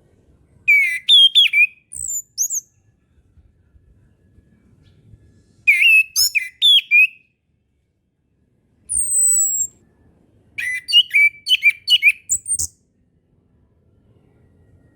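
Chestnut-capped thrush (anis kembang) singing: four short phrases of quick, varied whistled notes separated by pauses. One phrase is a single high, slightly falling whistle.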